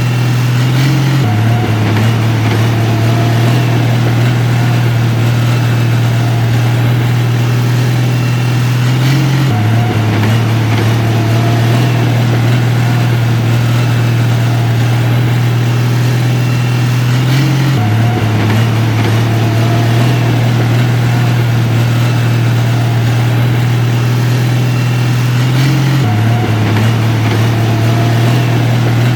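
Steady low drone of a heavy diesel engine from earthmoving equipment, running without revving; the hum shifts slightly about every eight seconds in a repeating pattern.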